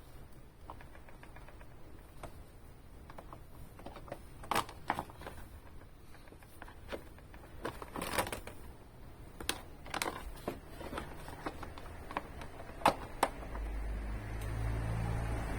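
Scattered light clicks and knocks of hand work, as tools and parts are handled. Near the end a low rumble rises.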